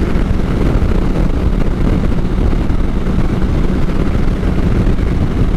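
Motorcycle cruising at steady highway speed: a constant engine drone under heavy wind rush on the microphone.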